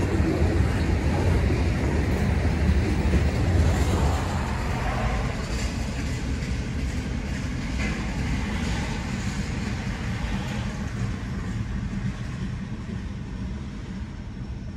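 Freight cars of a long mixed freight train, tank cars and covered hoppers, rolling past on the rails with a steady low rumble. The rumble grows fainter from about five seconds in as the end of the train goes by.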